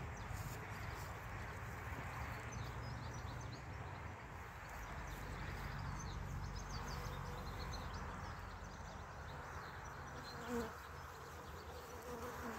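Honeybees from a swarm buzzing around, with one flying close past about ten and a half seconds in, briefly louder.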